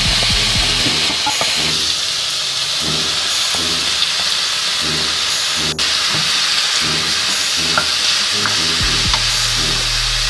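Pork belly sizzling in a hot pan as it is stir-fried, with a wooden spatula stirring and scraping through the meat, sliced onion and green onion.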